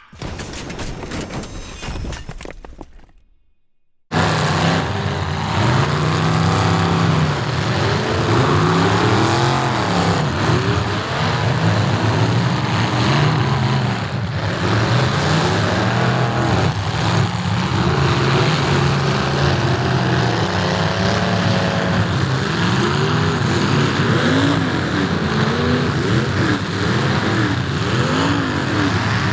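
Several demolition derby cars' engines running and revving together, their pitches rising and falling over one another. The sound starts abruptly about four seconds in, after a brief quiet.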